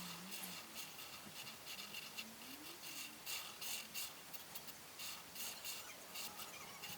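Coloring strokes scratching on paper, a quick irregular run of short back-and-forth rubs.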